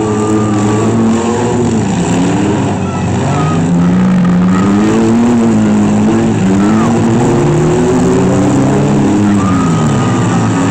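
Engines of several demolition-derby vans, trucks and SUVs revving hard, their pitches rising and falling against one another as they are driven around the arena.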